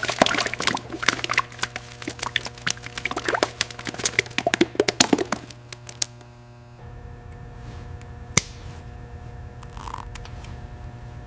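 A quick, irregular run of sharp taps and knocks over a steady low hum, stopping about six seconds in. The hum carries on, with one more sharp tap a couple of seconds later.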